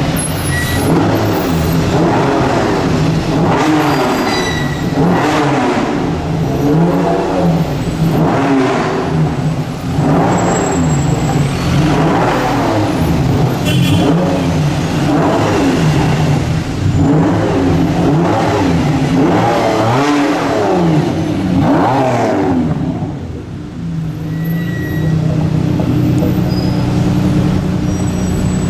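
Lamborghini Diablo V12 engine being revved repeatedly, each blip of the throttle rising and falling about every one to two seconds, then settling into a steady idle about 23 seconds in.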